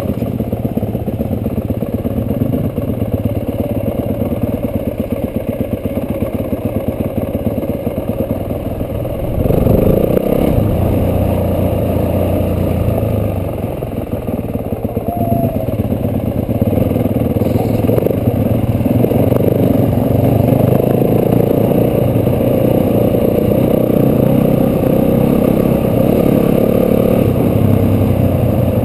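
Yamaha dirt bike's engine running under way on a dirt track, heard from on the bike. It gets louder about ten seconds in as the throttle opens, eases off briefly, then runs steadily harder.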